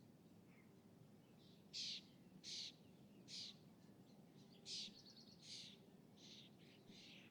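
A bird calling over and over: a run of short, sharp calls less than a second apart, starting about two seconds in, over a faint low background hum.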